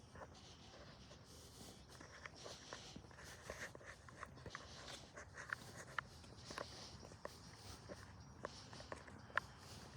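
Footsteps on a trail: quiet, uneven crunches and ticks, about one or two a second, over a faint steady hiss.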